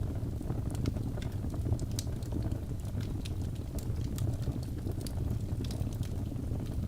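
Birch logs burning in a fireplace: irregular sharp crackles and pops over a steady low rumble of the flames.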